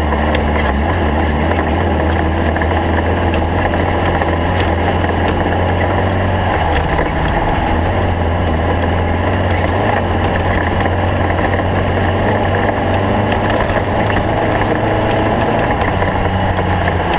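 Stock Volkswagen Beetle desert race car driving, its air-cooled flat-four engine running under load in a steady, loud drone with heavy road noise.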